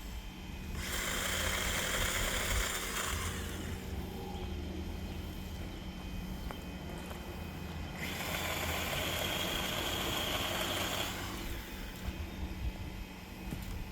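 Electric chainsaw running in two bursts, starting and stopping abruptly: the first about a second in for roughly two and a half seconds, the second about eight seconds in for about three seconds.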